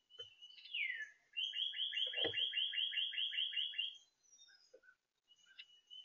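A songbird singing: one long downslurred whistle, then a quick series of about a dozen repeated downslurred notes, about five a second.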